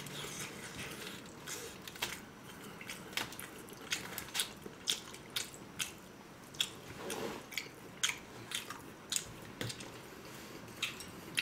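Close-miked eating sounds: food being bitten and chewed, with irregular sharp clicks and crunches.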